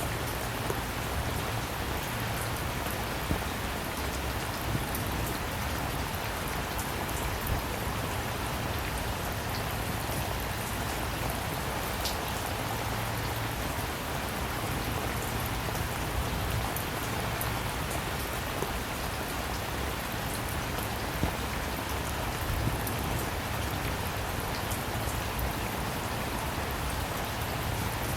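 Steady rain falling on a surface, a constant hiss with many close individual drop splats and occasional slightly louder drops.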